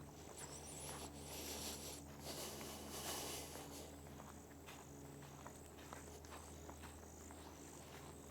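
Footsteps on an outdoor trail, with faint high chirping in the background over a steady low hum.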